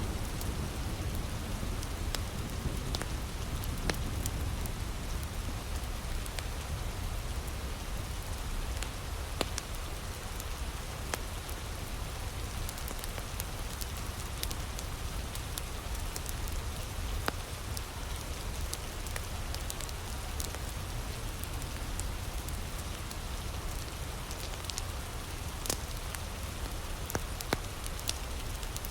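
Heavy rain falling steadily, with scattered sharp pops and crackles from a wood fire.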